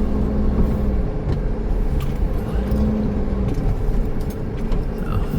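Engine and road noise of a 2008 Pleasure-Way Ascent camper van heard from inside the cab while driving: a steady low drone with an engine hum that fades and returns.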